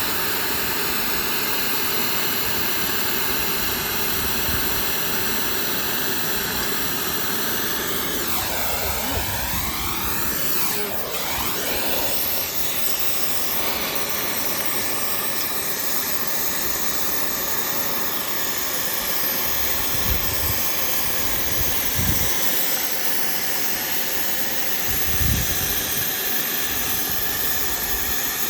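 Oxy-fuel gas cutting torch hissing steadily as it cuts through a steel link of an excavator track chain, with a brief falling-and-rising sweep in pitch about nine seconds in and a few low knocks near the end.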